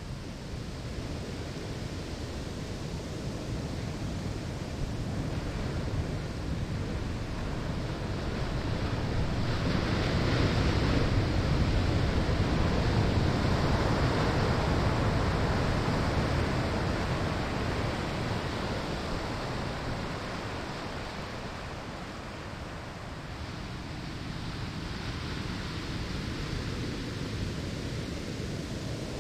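Ocean waves breaking on a sandy shore: a steady wash that swells to a peak about ten seconds in and slowly falls away again.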